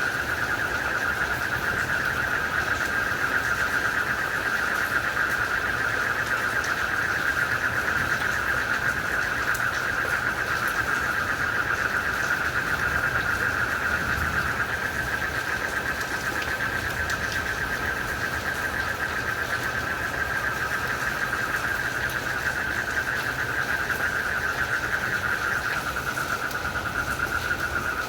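Dense night chorus of frogs and crickets, a steady, fast-pulsing trill, over an even hiss of rain.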